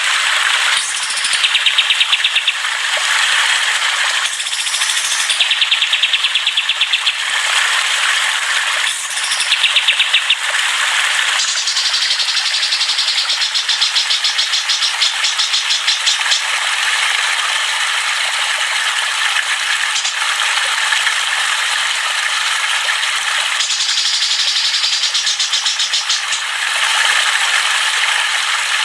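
Songbirds singing and chattering in dense, fast trills and rattling runs of rapidly repeated high notes, with no pause throughout.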